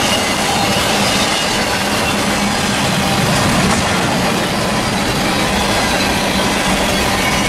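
Double-stack intermodal container cars rolling steadily past on the rails in a heavy downpour: continuous wheel-on-rail noise mixed with the hiss of pouring rain, with a steady low hum underneath.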